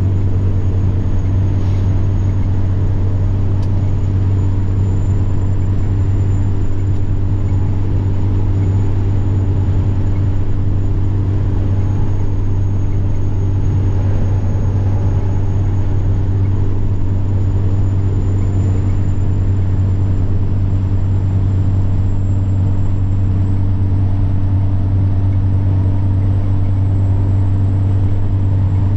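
Semi truck's diesel engine droning steadily while driving, with a high, thin turbocharger whine that drifts slowly up and down in pitch.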